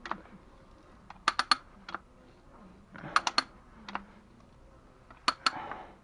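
Sharp clicks and taps of hard objects, in quick groups of two or three about every two seconds, with a few single clicks between.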